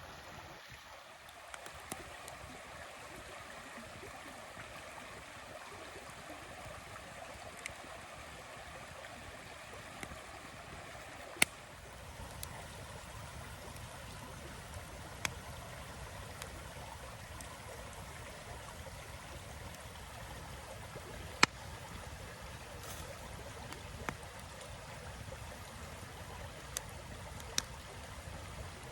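Wood fire burning with a steady soft hiss and sharp crackles and pops every few seconds.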